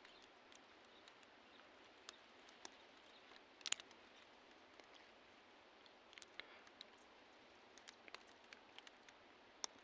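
Near silence: a faint steady hiss with scattered small clicks, and a louder cluster of clicks about three and a half seconds in.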